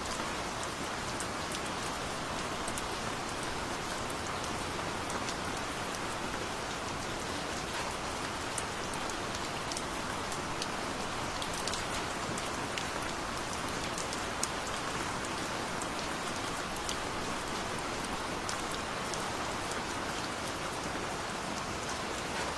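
Steady rain falling, an even hiss with many small sharp drop ticks on top.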